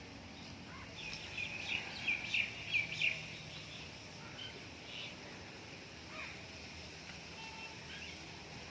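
Birds chirping: a quick run of short, high chirps for about two seconds near the start, then a few scattered faint calls over steady outdoor background noise.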